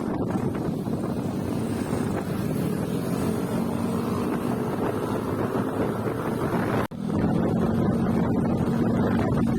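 A motor running steadily under heavy wind noise on the microphone. There is a sudden break about seven seconds in, after which the engine hum is stronger.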